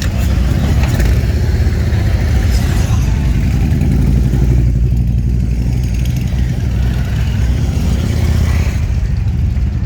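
Motorcycle engine running steadily, a loud continuous low engine sound with no breaks.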